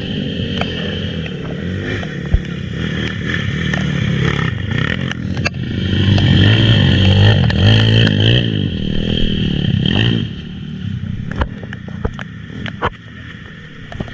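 Honda XRM125 underbone's single-cylinder four-stroke engine revving up and down under riding, loudest from about halfway in and easing off near the end, with scattered knocks and clatter in the last few seconds.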